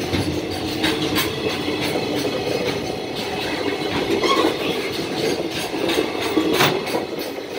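Container flatcars of a fast freight train rolling past close by: a steady rumble of steel wheels on the rails, with irregular sharp clicks as the wheels cross rail joints.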